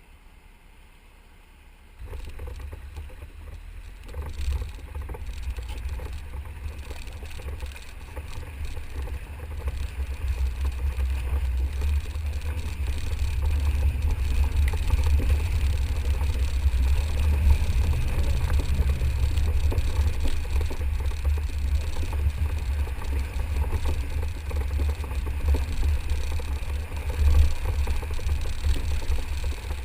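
A vehicle rumbling low and unevenly, starting suddenly about two seconds in and growing louder.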